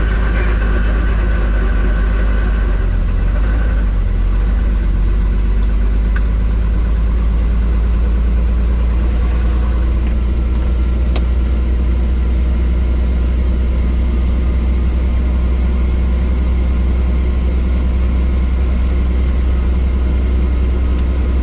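Helicopter engine and main rotor running steadily, a loud, even low drone with a fainter higher whine on top.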